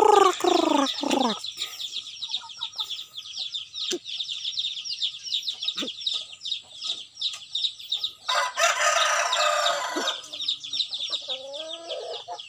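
Birds calling over a constant high chirping: a run of loud, falling calls in the first second and a half, a harsh drawn-out call about two-thirds of the way through, and a short rising call near the end.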